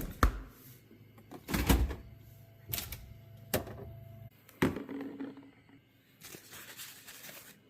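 A series of irregular knocks and clunks, about half a dozen, the loudest a heavy thump a little under two seconds in, from shelf and drawer parts of a refrigerator being handled, followed near the end by a brief rustle.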